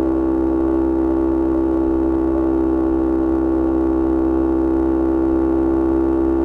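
Yamaha R25 parallel-twin engine through a Kea Speed aftermarket exhaust, held at a steady engine speed: one constant, unchanging tone with no revving.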